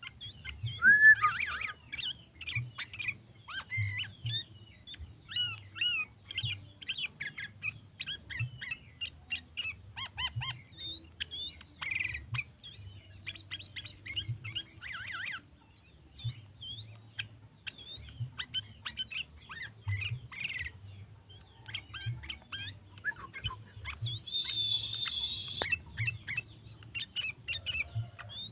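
Sooty-headed bulbul (kutilang) chirping and calling over and over in quick short notes, loudest about a second in. A low hum runs underneath.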